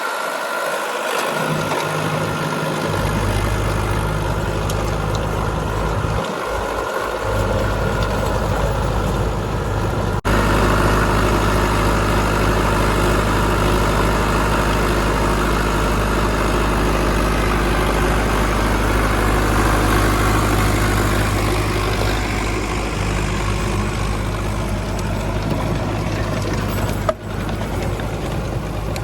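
Sonalika DI 750 Sikander tractor's diesel engine running steadily while working a 6-foot rotavator. The sound breaks off for an instant about ten seconds in and again near the end.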